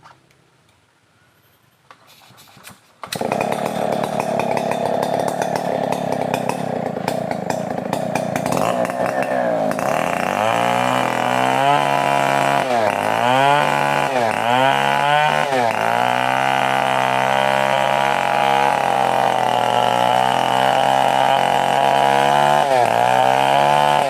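A Stihl 070 large two-stroke chainsaw starts about three seconds in and runs at high revs. Its pitch sags and recovers several times.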